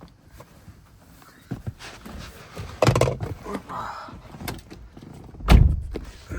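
Car door and interior handling: scattered clunks and knocks, with a heavy thump of a door shutting about five and a half seconds in.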